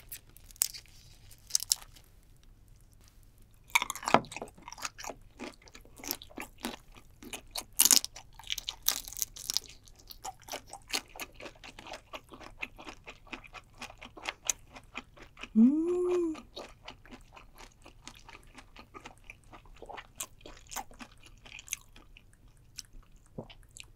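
A person chewing a mouthful of raw shrimp: many wet, crunchy clicks with a few louder crunches near the start. About two-thirds of the way through comes one short hummed "mm".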